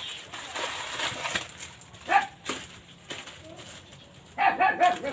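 Plastic grocery packets rustling and crinkling as they are handled and sorted. A few short pitched calls stand out about two seconds in and again near the end.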